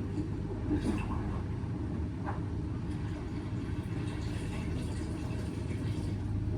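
Laundry machines running with a steady low hum: an Indesit washing machine on its baby cycle near the end of the main wash, with a tumble dryer also going. A few faint ticks sound over the hum.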